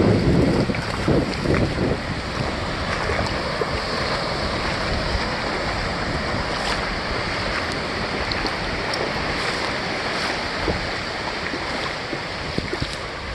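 Ocean surf washing steadily, with wind buffeting the microphone, strongest in the first couple of seconds.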